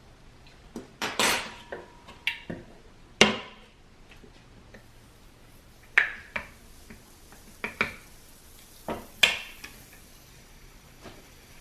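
Kitchen utensils and dishes being handled: about a dozen sharp clinks and knocks at uneven intervals, each with a short ring.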